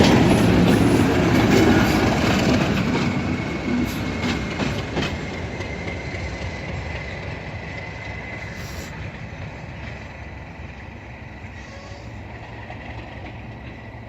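Class 37 diesel locomotive running light and pulling away, its engine sound fading steadily as it moves off, with a steady high whine throughout.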